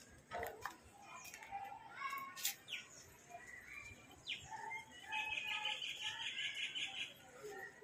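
Faint bird chirps and short falling calls, with a run of rapid repeated chirps in the second half, over faint distant voices.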